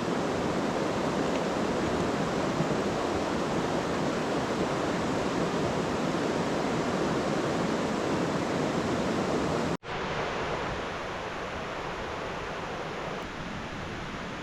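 Steady rushing noise of heavy rain. About ten seconds in it cuts off abruptly and resumes softer.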